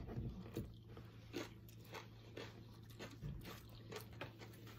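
Faint mouth sounds of tortilla chips being bitten and chewed, a string of short irregular crunches.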